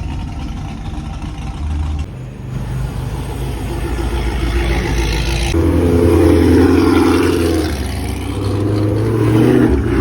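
A car engine running and revving as the car moves through. It grows louder from about two seconds in and is loudest just past the middle, then eases and swells again near the end.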